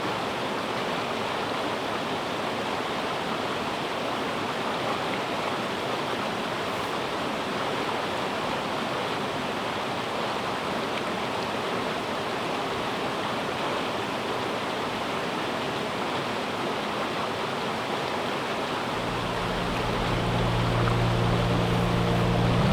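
River water rushing steadily. About three seconds before the end, a low steady hum joins it.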